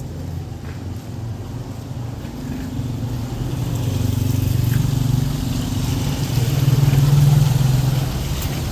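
A motor vehicle's engine running close by, growing louder over several seconds to a peak about seven seconds in, then easing off slightly.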